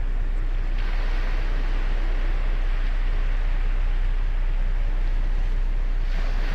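Ocean surf on a beach: a hissing wash of breaking waves swells about a second in and eases near the end, over a steady low rumble of the sea.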